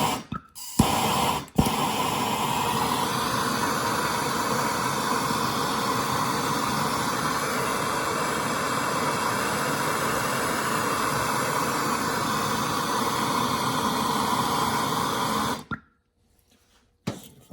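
MAP gas torch: a couple of clicks as it is lit, then a steady, loud hiss of the burning flame for about fourteen seconds before it is shut off abruptly. The flame is heating a seized battery hold-down stud to free it.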